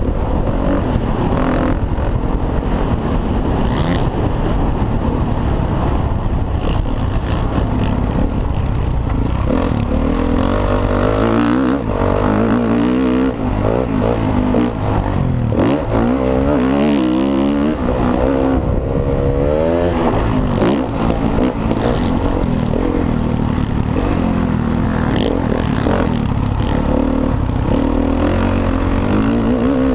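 Motocross dirt bike engine revving hard, its pitch rising and falling again and again as the throttle is worked, loud throughout over a heavy rumbling noise.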